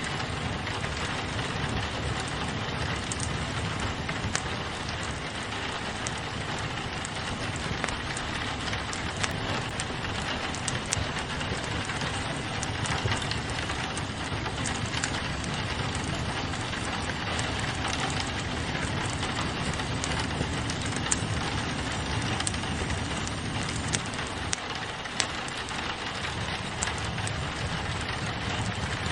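Steady rain pattering on a window, with a fireplace fire crackling over it in scattered sharp pops.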